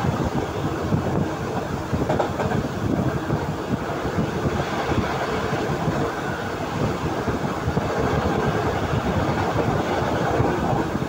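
Passenger train running at speed, heard from an open window of the carriage: a steady, loud rumble of wheels and running gear on the track.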